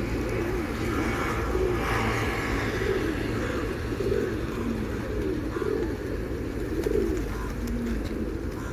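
A flock of pigeons cooing, many overlapping low coos one after another, with a few higher short calls from other birds mixed in.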